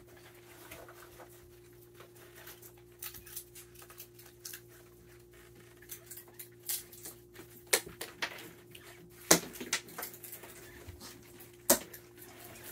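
Raccoons feeding on peanuts on a wooden deck: scattered small clicks and crunches, with a few sharper knocks, the loudest about two-thirds of the way through.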